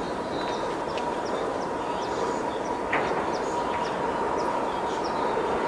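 An approaching train's steady rumble with a thin, steady hum, slowly growing louder. Birds chirp rapidly and high over it.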